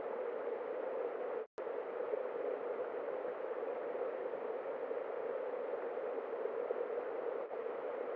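Steady hiss from a trail camera's microphone, with no animal or other sound standing out. It cuts out completely for a moment about one and a half seconds in.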